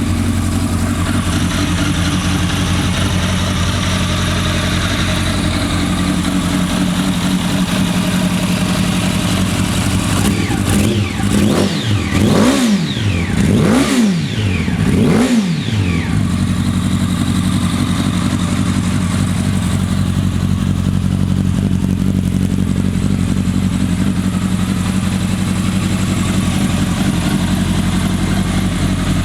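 2008 Yamaha R1 sportbike's inline-four engine idling steadily. About a third of the way in it is blipped up and down three times in quick succession, then settles back to idle.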